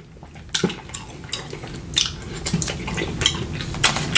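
Close-miked wet chewing and lip smacking of a mouthful of saucy meat, with irregular sharp smacks and clicks, some from a plastic fork against a foam takeout container.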